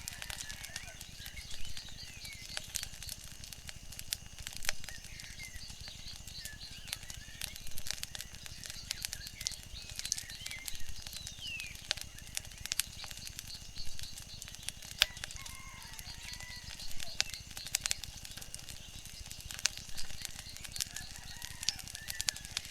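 Wood fire crackling with frequent sharp, irregular pops, with short chirping calls every few seconds over a faint steady background.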